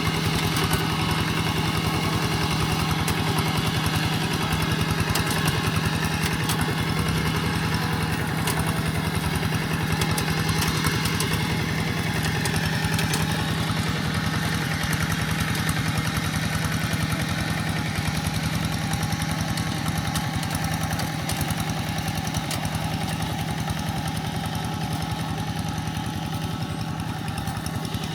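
Quick G1000 walking tractor's engine running steadily while pulling a moldboard plough through wet soil.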